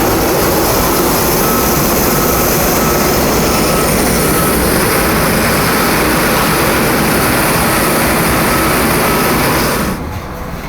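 Boeing 787-8 Dreamliner's jet engines running with a steady loud roar, which drops off sharply near the end.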